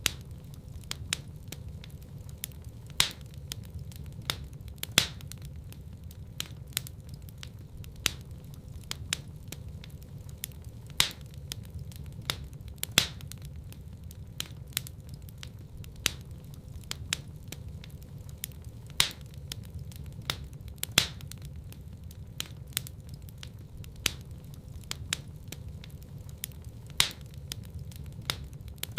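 Wood fire in a fireplace crackling: many small sharp snaps, with louder pops every few seconds, over a steady low rumble of burning.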